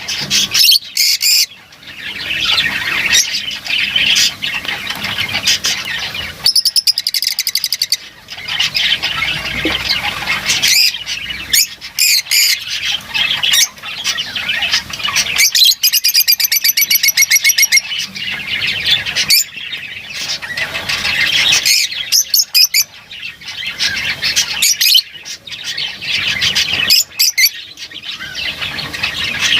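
Lovebirds chattering, with shrill squawks and chirps on top. There are two short stretches of fast, buzzy trilling, about a quarter of the way in and just past the middle.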